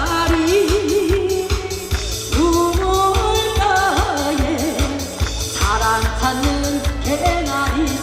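Woman singing a trot medley live over a backing track with a steady beat, holding notes with vibrato.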